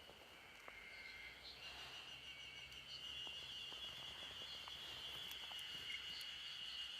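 Cicadas droning as a steady high-pitched buzz that swells about a second and a half in, with a few faint clicks.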